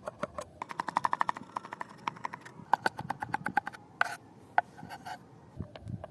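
Rapid series of light taps and clicks, some with a short ringing tone, and a brief burst of hiss about four seconds in.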